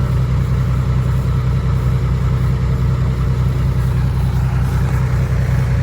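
Isuzu Rocky dump truck's diesel engine running steadily at low revs.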